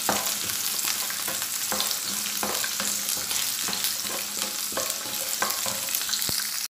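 Whole shallots, dry red chillies and cashew nuts sizzling in hot oil in a nonstick pan, being sautéed, with a wooden spatula scraping and knocking through them every half second or so.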